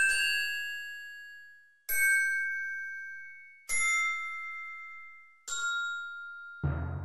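Soundtrack music of single struck bell-like notes, each ringing out and slowly fading, about one every two seconds, followed near the end by a deep, heavy drum hit.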